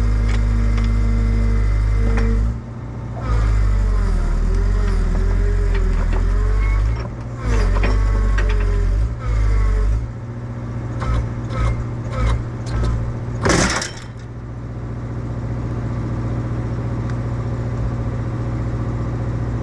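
Excavator diesel engine running under hydraulic load, its whine rising and falling as the controls are worked, with a run of metal clanks and one loud pop about two thirds of the way in: the track snapping back onto the top roller.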